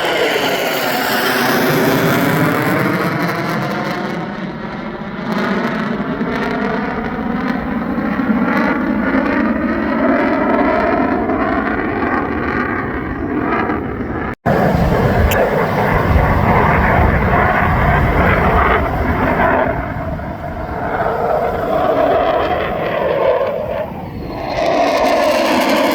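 Jet noise from a US Marine Corps F-35B, its single F135 turbofan heard loud and continuous as the jet flies its display, with slowly sweeping rising and falling tones. The sound cuts out for an instant about 14 seconds in, then carries on at the same level.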